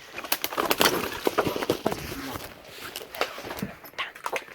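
People climbing and scrambling: irregular rustling and scraping with many sharp snaps and knocks, busiest in the first two seconds.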